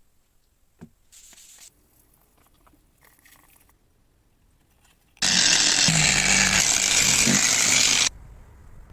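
A few faint small clicks and rustles of handling, then a loud, steady rushing noise from a workshop tool that cuts in abruptly about five seconds in and stops just as abruptly about three seconds later.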